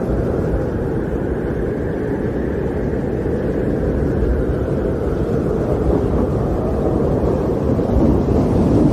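Storm wind blowing steadily, a dense low rush with a fainter higher whistle that swells and fades.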